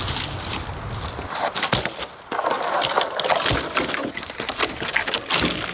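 Dead wood and twigs cracking and snapping in a run of irregular sharp crackles, with a short pause about two seconds in.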